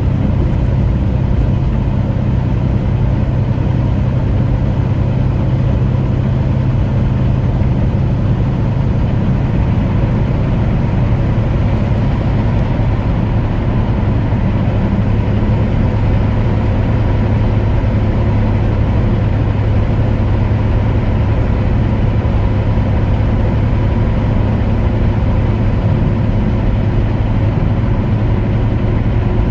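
Steady engine drone and road noise inside the cab of a truck cruising at speed.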